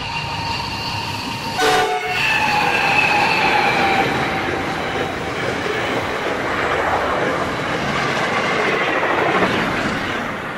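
Full-size diesel freight train passing at speed, its locomotive horn sounding. The horn's pitch drops as the locomotives go by about two seconds in, followed by the rumble and clatter of container wagons rolling past.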